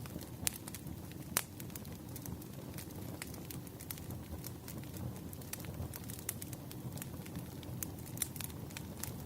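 Wood fire crackling: irregular sharp pops and snaps of burning logs over a steady low rumble, with a couple of louder pops in the first second and a half.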